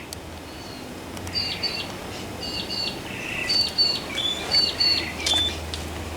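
A bird chirping in short, high, repeated notes, coming faster from about a second in, over a faint, steady low hum.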